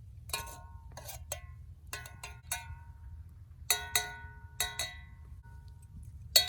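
A spoon clinking against the inside of a camp mug, about a dozen irregular ringing taps as instant coffee is stirred.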